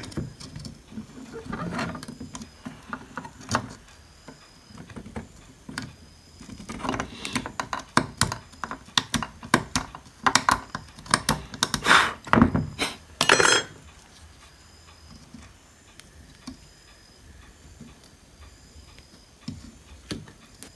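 Small hard clicks, taps and scrapes of tools and electronic parts being handled on a workbench, busiest in the middle, with two sharper snaps near the middle; quieter handling noise for the last several seconds.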